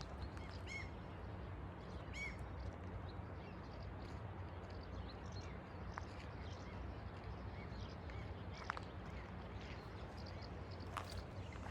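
Outdoor ambience of a steady low rumble with a few short bird calls, twice in the first few seconds, and scattered light clicks of footsteps.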